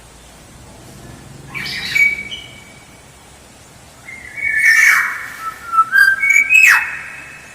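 Black-naped oriole (kepodang) singing: a short whistled phrase, then a longer, louder phrase of fluty whistled notes that ends with a harsh, quickly falling note.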